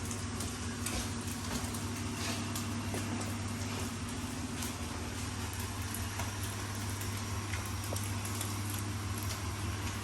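Food sizzling gently in a pot on the stove over a steady low hum, with a few faint clicks and knocks.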